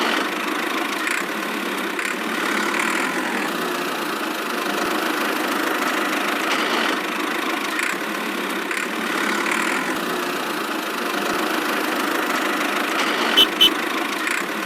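An engine running steadily at an even pitch, with two sharp clicks about a second before the end.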